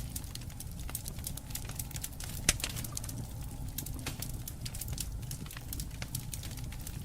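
Wood fire burning, with a steady low rumble and irregular crackles and pops of burning wood, one sharp pop louder than the rest about two and a half seconds in.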